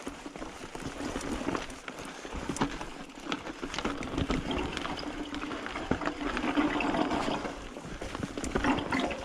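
Mountain bike riding a dirt trail: continuous tyre-on-ground noise with many sharp clicks and rattles from the bike, and a steady hum through the middle stretch.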